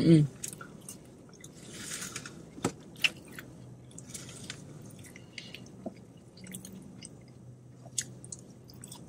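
Quiet close-up chewing of fast food with the mouth closed: soft wet smacks and small clicks scattered through.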